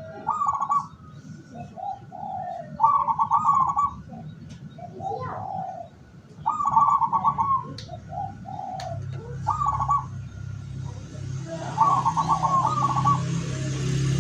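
Zebra dove (perkutut) cooing in repeated phrases about every three seconds, each a lower coo followed by a quick, trilled higher coo. A low steady hum joins past the middle.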